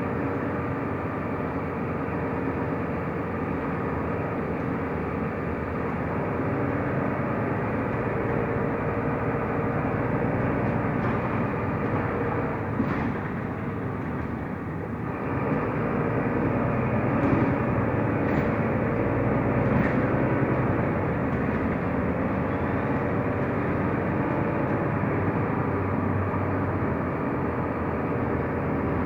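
Mercedes-Benz O345 Conecto LF city bus under way, heard from inside the cabin: steady engine and road noise that dips briefly about halfway, then picks up again.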